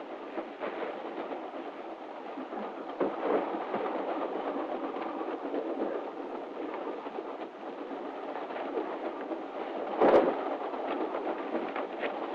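Steady running noise of a moving railway sleeping car, with scattered knocks and one louder thump about ten seconds in.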